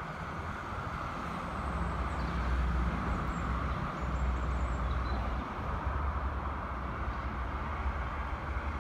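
Renault Clio 0.9 TCe three-cylinder turbo petrol engine idling with the bonnet open: a steady low rumble.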